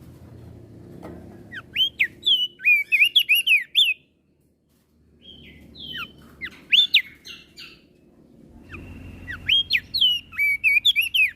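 Crested dark-eye (opior jambul) singing: three bouts of quick, sharp, sliding whistled notes a few seconds apart.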